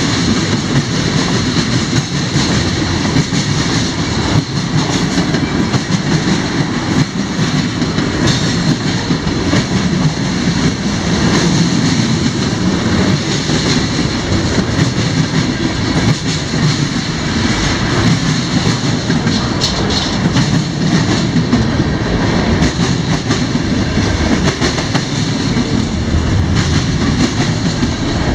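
A CSX mixed freight train's cars rolling steadily past, steel wheels clicking over the rail joints.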